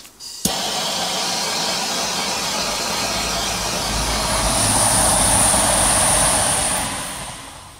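A train passing by. The noise builds to a peak about five seconds in, with a thin high whine at its loudest, then fades away.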